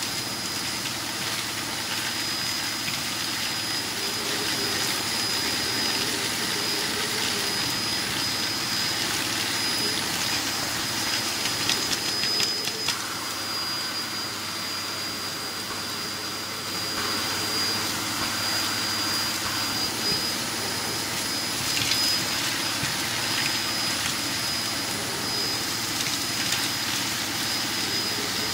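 A 2007 Hoover Performer Pet HPT16 upright vacuum cleaner running steadily, with a high whine over its motor and airflow noise. It is sucking up ash and debris from a fireplace, with scattered clicks and rattles about a third of the way in and again near the three-quarter mark.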